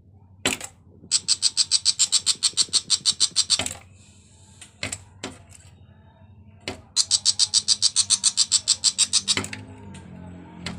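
A bird's rapid, harsh chattering rattle, about ten notes a second, in two bursts of about two and a half seconds each, with a few single sharp calls between them.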